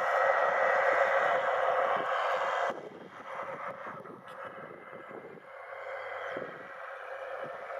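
New Holland T7060's six-cylinder diesel engine running steadily under ploughing load, with wind buffeting the microphone. About three seconds in the engine sound drops away suddenly and carries on much quieter.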